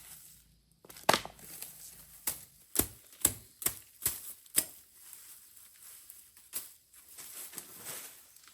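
A series of sharp knocks: seven come in quick succession over a few seconds, then a single one a couple of seconds later.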